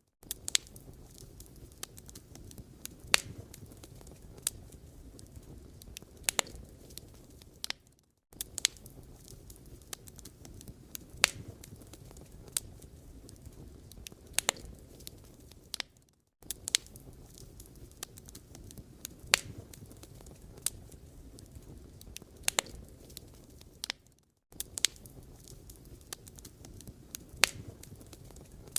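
Wood fire burning, crackling with sharp pops and snaps over a low rumble of flame. The sound drops out briefly about every eight seconds.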